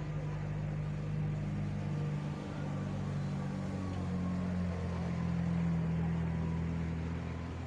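A vehicle engine running with a steady low hum, its pitch lifting slightly about halfway through.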